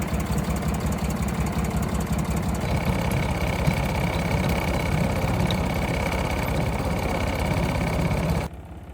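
The engine of an old farm vehicle under restoration running steadily with a dense low rumble, while a thin high whine comes in about three seconds in. The sound cuts off abruptly near the end.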